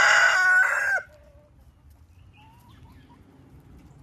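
A rooster crowing loudly close by, the crow ending about a second in; after it come a few faint, short calls from the flock.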